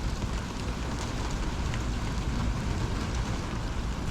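Heavy thunderstorm rain pouring steadily, with scattered sharp ticks of drops striking close by.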